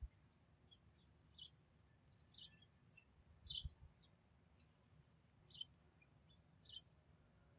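Faint, high bird chirps, one short note about every second, from a small songbird. A soft low bump comes about three and a half seconds in.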